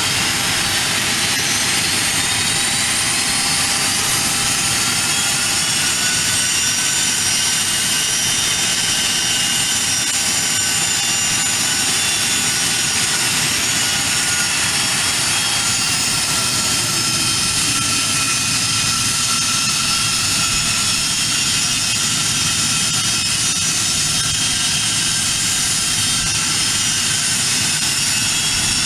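Aircraft turbine engines idling just after start-up: a loud, steady rush with a high whine that rises slightly over the first few seconds, then holds level.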